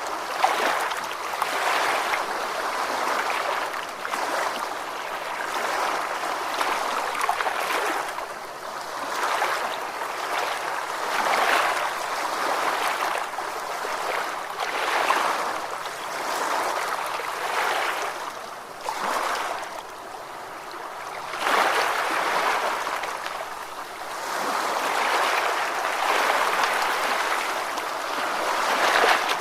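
Ocean waves washing in and drawing back, a steady rush of surf that swells and ebbs every few seconds.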